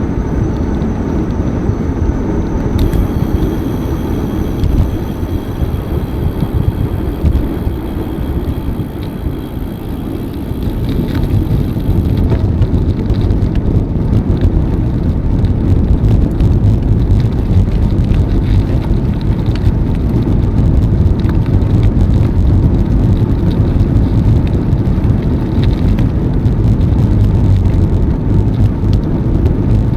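Wind rushing over the microphone and tyre rumble from riding a bicycle, growing louder about ten seconds in.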